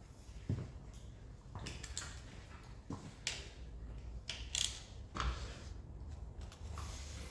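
Irregular metallic clinks and knocks of hand tools and engine parts being handled during an engine stripdown, about one every second or so.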